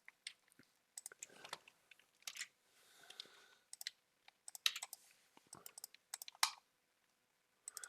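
Faint, irregular computer keyboard and mouse clicks in small clusters.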